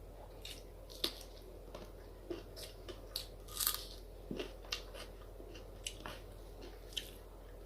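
A person chewing and biting food close to the microphone: irregular short mouth clicks and brief noisy bursts, the loudest about three and a half seconds in.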